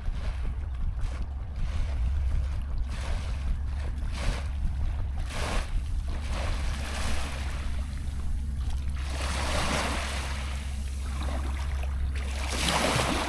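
Wind buffeting the microphone: a steady low rumble with gusts of rushing noise that swell and fade, the broadest about two thirds of the way through.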